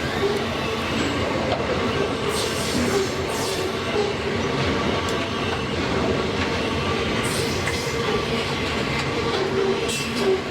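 Freight train rolling past on the rails: a steady rumble of wheels and wagons, with a steady squealing tone and a few brief high squeals from the wheels.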